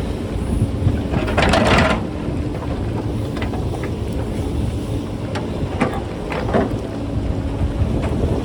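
JCB backhoe loader's diesel engine running under heavy wind buffeting on the microphone, with a burst of clattering rocks and metal about a second and a half in, then lighter knocks and clinks of stones.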